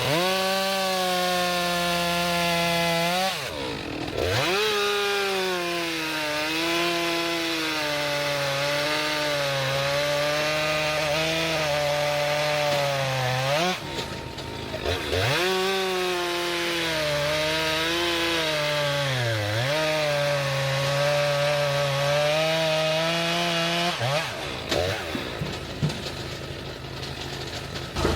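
Stihl MS 261 two-stroke chainsaw at full throttle bucking logs, its engine pitch sagging and wavering as the chain cuts through the wood. It makes three long cuts, with the revs dropping sharply between them, and the engine falls off near the end.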